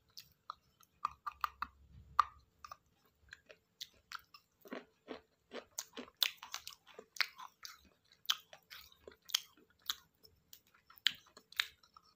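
Close-up biting and chewing of pieces of a broken clay pot (matki): a run of sharp, irregular crunches, more frequent and louder in the second half. The fired clay is hard to bite through.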